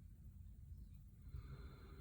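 Faint breathing of a person close to the microphone, one breath swelling about a second in, over a low steady room hum.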